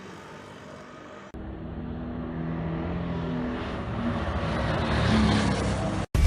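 Single-cylinder sport motorcycle engine running at speed and growing gradually louder. A quieter, noisier stretch gives way to it suddenly about a second in.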